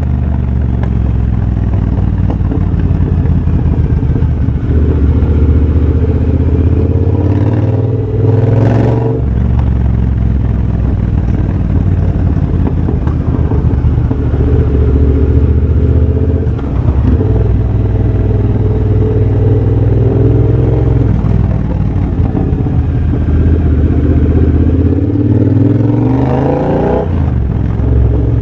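Exhaust note of a 2023 Triumph Bobber's 1200 cc parallel-twin engine, breathing through a de-catted X-pipe and Motone Shorty silencers, while riding. The pitch holds steady, then climbs under throttle with short breaks at gear changes, once about eight seconds in and again near the end.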